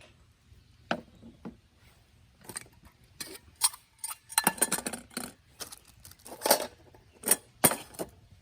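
Cookware and utensils being handled and set down: irregular knocks and clinks, busiest around the middle, with a few sharper strikes near the end.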